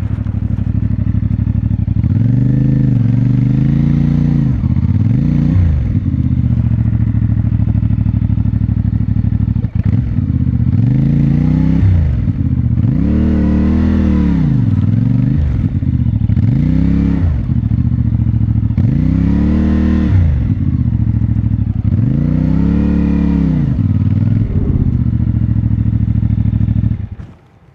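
CFMoto 450MT parallel-twin engine running, with about seven blips of the throttle that rise and fall in pitch, before the engine is shut off near the end.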